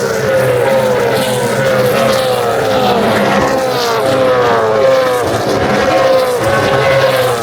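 Supercars V8 race cars running on the circuit at high speed. The engine note falls in pitch about once a second, over and over, as the cars go by or change gear.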